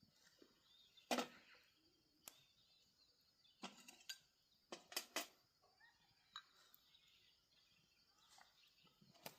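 A series of short, sharp snaps and crackles, about nine in all, spread irregularly over a quiet background. The loudest comes about a second in, and a cluster follows around the fifth second.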